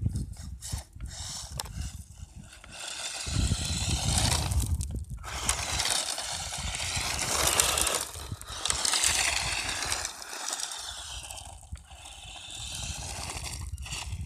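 ECX Torment RC truck's electric motor whining, rising and falling in pitch in several throttle bursts, with rough drivetrain and tyre noise underneath.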